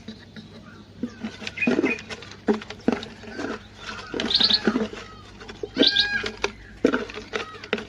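Small caged bulbuls chirping and calling in quick, irregular short notes, some whistled, mixed with brief clicks.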